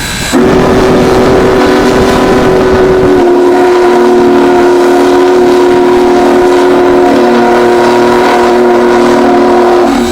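A train's chime whistle or horn sounding one long, loud blast of several notes together. It starts suddenly, holds steady for nearly ten seconds and then stops, its lower notes shifting slightly about three seconds in.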